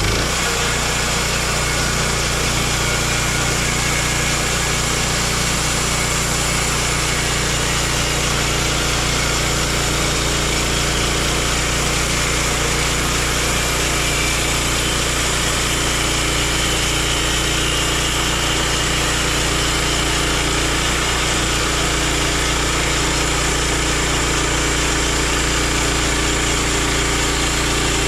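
Gas engine of a Woodland Mills HM126 portable bandsaw mill running steadily at speed while the band blade saws through a hardwood log.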